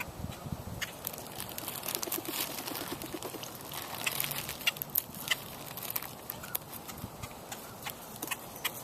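Muscovy duck and boat-tailed grackles feeding at the water: irregular sharp clicks and ticks throughout, with a brief low pulsed call about two seconds in.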